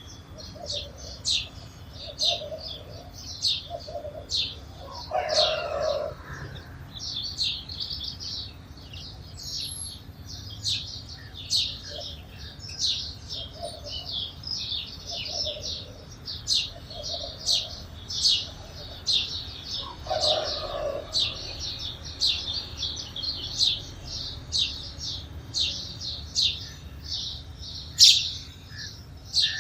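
Sparrows chirping in a steady run of short, sharp, high chirps, about two a second, with a louder chirp near the end. A lower, longer call sounds twice, once early and once about two-thirds of the way in.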